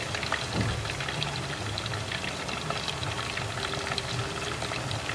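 Battered chicken pieces deep-frying in hot cooking oil, the oil bubbling and crackling steadily.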